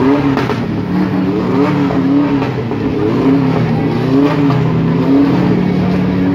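Engines of a race-prepared Volkswagen Beetle and a Ford Mustang at a drag-race start line: a steady idle, with the throttle blipped in short revs about once a second.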